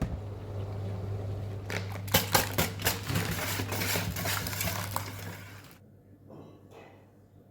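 Eating noises: a run of sharp clicks and clinks lasting about four seconds, over a steady low hum that stops near the end.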